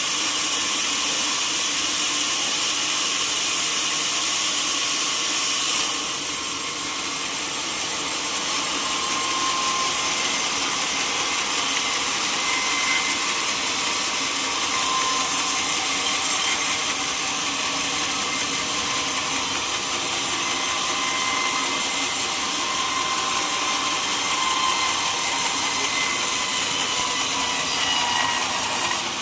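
Power sawmill cutting a teak log, a steady, continuous saw noise with faint whining tones from the blade. The level dips slightly about six seconds in, then carries on.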